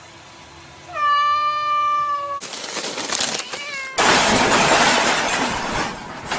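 A cat giving one long, slightly falling meow, then a shorter meow inside a burst of loud noise. About four seconds in, a louder rough noise starts and lasts about two seconds.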